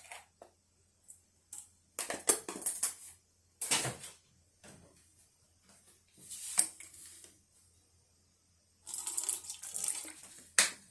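Small containers clinking and liquid being poured and stirred in several short bursts while a soy sauce, sugar and mirin sauce is mixed.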